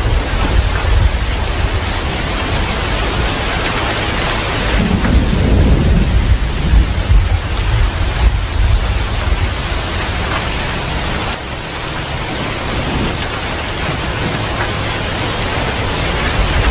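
Steady heavy rain with low rolling thunder rumbling underneath, the rumble swelling about five seconds in.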